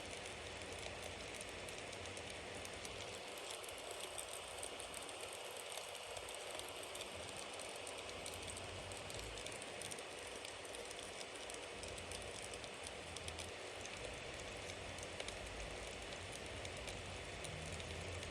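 Bonfire burning steadily, wood crackling with many small pops over a continuous hiss and low rumble of the flames.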